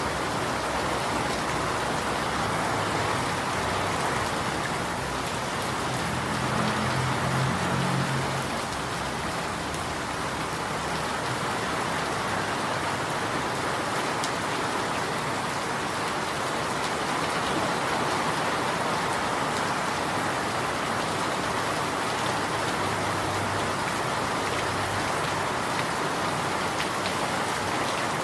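Steady rain falling, an even hiss of drops hitting surfaces. A low hum rises briefly under the rain about six to eight seconds in.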